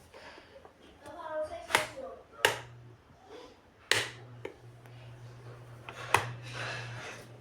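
Mondial Maxi Power 30 desk fan's switch clicked four times, the electric motor humming low in between and dying away near the end.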